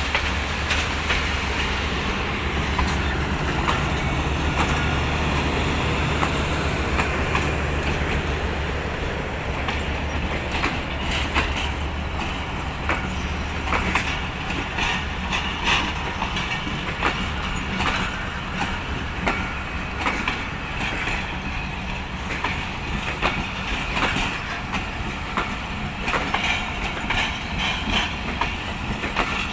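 A departing passenger train rolling past, its wheels clicking over rail joints with occasional squeal. A diesel locomotive's low engine drone is heard at first and fades away within the first dozen seconds or so, leaving the coaches' clatter.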